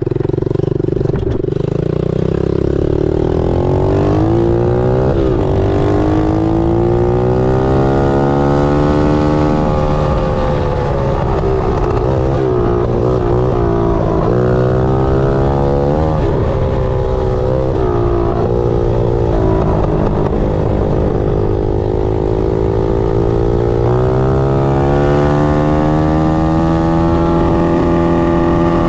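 Pit bike engine ridden at full throttle, its pitch climbing in steps as it shifts up through the gears, then dropping and wavering as the throttle eases off, before climbing again near the end.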